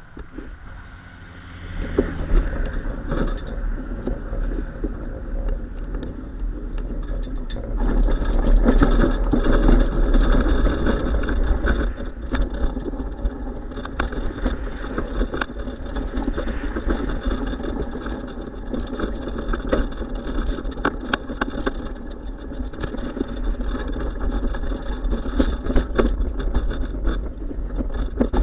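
Riding noise from a moving bicycle: a steady low rumble with frequent short rattles, getting louder about two seconds in.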